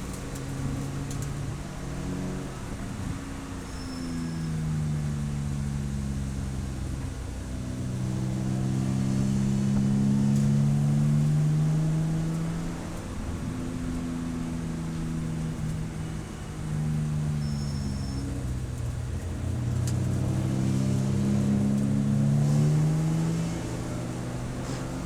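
Race car engine under way, its note climbing in pitch over several seconds as it accelerates, then dropping off, several times over.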